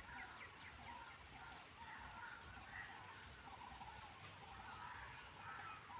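Near silence: faint outdoor field ambience with soft, scattered distant animal chirps.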